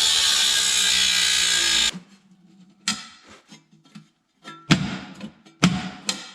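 A power drill runs steadily and cuts off abruptly about two seconds in. Sparse plucked acoustic-guitar notes follow.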